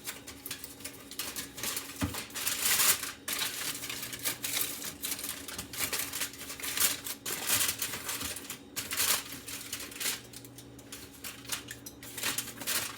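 Aluminium foil crinkling and rustling in quick irregular crackles as it is spread and pressed down over a pan to seal it.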